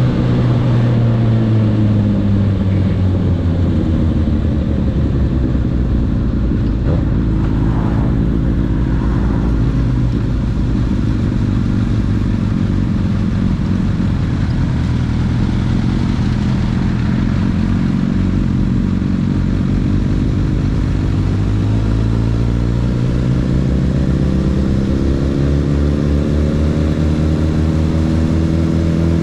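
Honda CB1000R's inline-four engine running. Its pitch falls over the first few seconds, holds low through the middle, then climbs steadily over the last several seconds.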